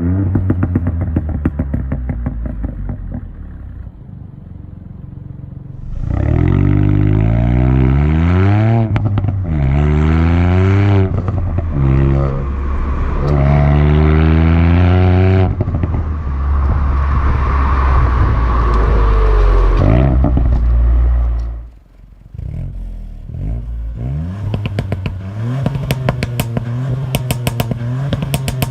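Ford Fiesta ST Mk8's turbocharged three-cylinder engine and exhaust. It runs low at first, then after a few seconds accelerates hard, its pitch rising and dropping back several times as it shifts up through the gears. It holds high revs for a while, then the throttle closes and it drops to low revs with crackles and pops from the exhaust.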